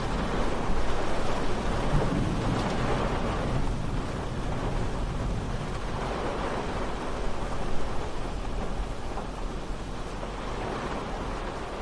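Steady rain falling, with a low rumble that swells over the first few seconds and then eases off.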